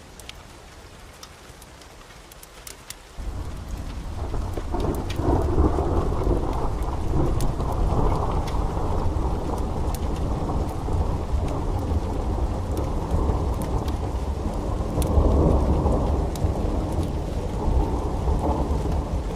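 Steady rain with faint crackles; about three seconds in, a loud, long roll of thunder breaks in and keeps rumbling, swelling twice.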